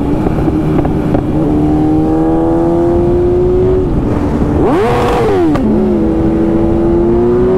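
BMW S1000RR inline-four engine running at highway speed over wind and road rumble, its pitch slowly creeping up. About halfway through it revs sharply up and straight back down, then settles into a steady run again with a second, lower engine tone alongside.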